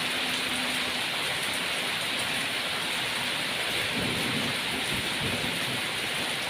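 Steady heavy rain, an even dense hiss of drops. A low rumble joins in about four seconds in.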